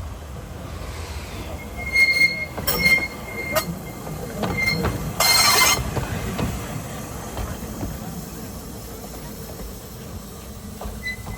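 Ffestiniog Railway narrow-gauge train running, its wheels squealing in short high-pitched bursts over a steady rumble, with several sharp clanks. A short, loud hiss comes a little after five seconds in.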